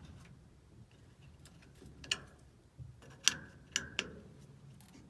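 A few sharp clicks and light knocks of small parts being handled and fitted onto a washing machine's shaft: one about two seconds in, then three close together a second later.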